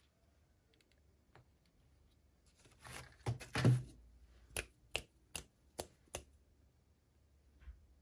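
Hands unboxing a toy: a brief rustle of packaging, then five sharp clicks in an even run, about two and a half a second.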